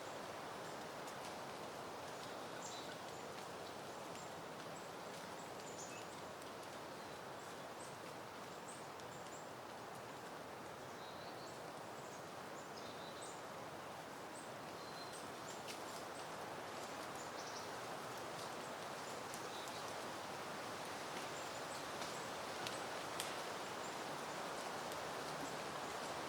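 Wind rustling through garden foliage as a steady soft rush that swells slightly toward the end. Faint, scattered bird chirps sound high above it, and a few soft ticks come near the end.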